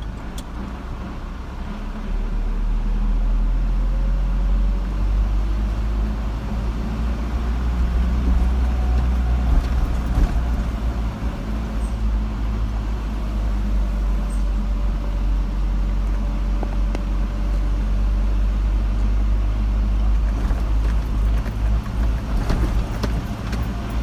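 A car driving, with a steady low engine and road rumble that gets louder about two seconds in.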